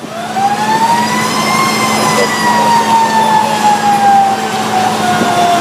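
Fire truck siren winding up quickly to its top pitch, then winding slowly back down, over the steady hum of the truck's engine.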